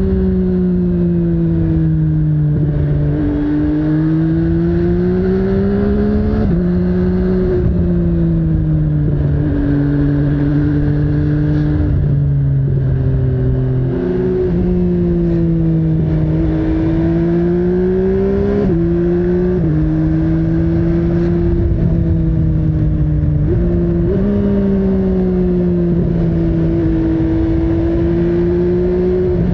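MV Agusta Brutale 800's three-cylinder engine under way, its note rising and falling with the throttle and jumping in pitch at several gear changes.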